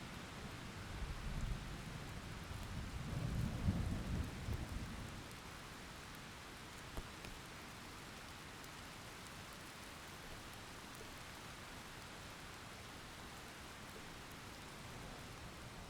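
Heavy typhoon rain falling as a steady hiss. A low rumble swells over the first few seconds and then dies away.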